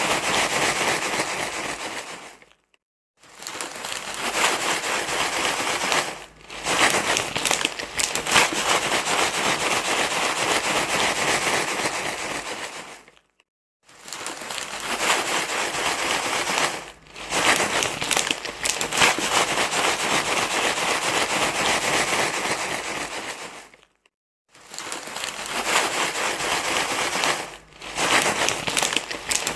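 Crinkly rustling and crackling, like something being crumpled and handled continuously, in long bouts with short silent breaks every few seconds; a rustle track played to soothe a crying baby.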